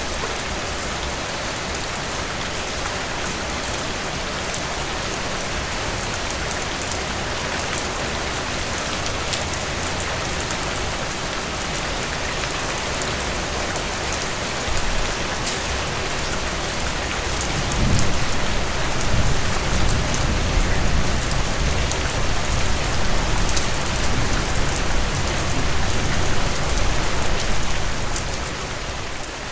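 Steady rainfall with scattered individual drops ticking. From about two-thirds of the way in, a low rumble swells underneath, then eases off near the end.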